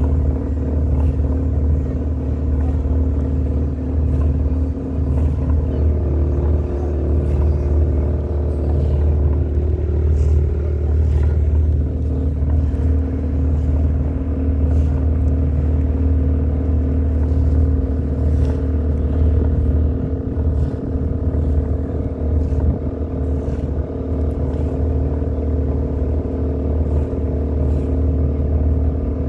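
Tour boat's engine running steadily at cruising speed: a constant low drone with steady tones above it.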